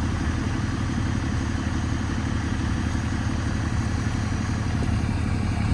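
Vehicle engine running steadily with a low, even rumble.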